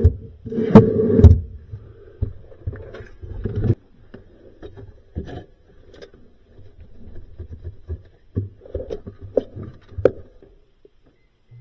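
Knocks, clicks and scrapes of parts and tools being handled during repair work on a freezer drawer. The loudest burst comes about a second in, followed by scattered sharper clicks.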